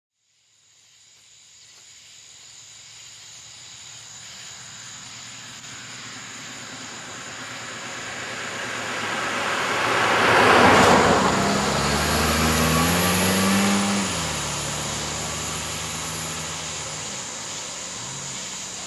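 A vehicle approaching and passing: its noise builds for about ten seconds to a peak, an engine note rises in pitch just after, then it slowly fades.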